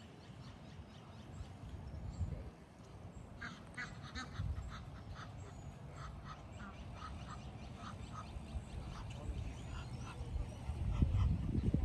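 Waterfowl at a lake calling in a run of short, rapidly repeated calls, under a low wind rumble on the microphone that grows louder near the end.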